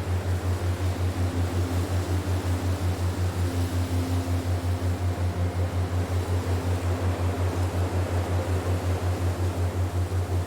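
Meditation sound track: a low hum pulsing evenly about five times a second over a steady hiss, with faint held tones above it.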